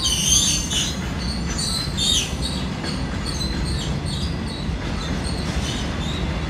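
Freight train of covered goods wagons rolling past close by: a steady low rumble of wheels on rail. High metallic wheel squeals are strongest in the first two seconds or so, then fade.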